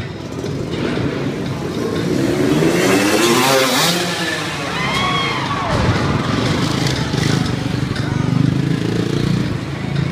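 Motocross dirt bike engines revving: the pitch climbs from about two seconds in to four, then rises and falls again around five to six seconds, over a steady low drone.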